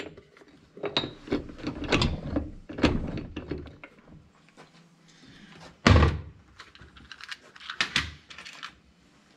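Irregular metallic knocks and clanks of hand tools working on a tractor's gearshift parts, with one heavy thunk about six seconds in.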